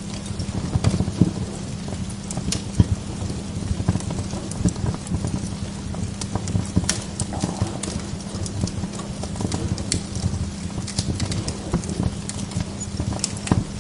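Wood log fire in a fireplace, crackling with irregular pops over a steady low rumble. A few sharper pops stand out about a second and about three seconds in.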